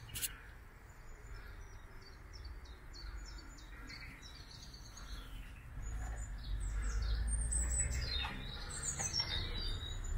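Songbirds chirping and singing in short phrases of quick high notes, some in falling trills. Underneath, a low rumble swells about six seconds in and eases off about two seconds later.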